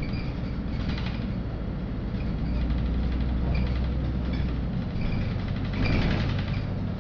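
Inside a LiAZ-5292 low-floor city bus under way: the engine and drivetrain give a steady low drone, with road noise and brief interior rattles. The engine note shifts about five seconds in.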